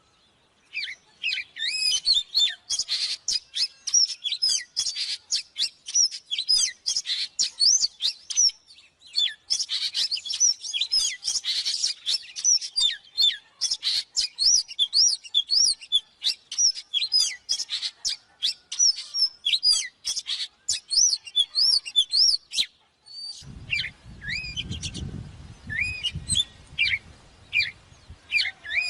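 Oriental magpie-robin singing a fast, varied song of rising and falling whistles and chirps, barely pausing. A low rumbling noise runs under the song in the last few seconds.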